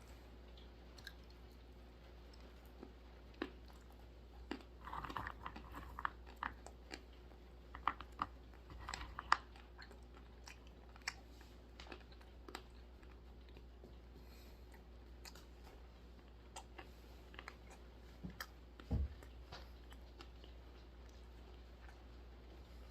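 Dry roasted almonds being chewed close to the microphone: irregular crisp cracks and crunches, busiest about five to nine seconds in. A single low thump comes near the end.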